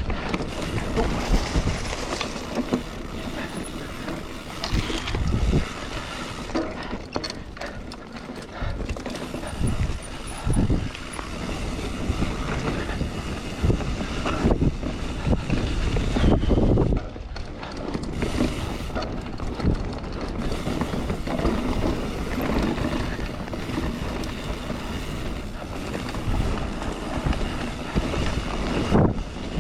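Mountain bike rolling fast over a rough dirt trail: continuous tyre rumble with frequent knocks and rattles from the bike as it goes over bumps.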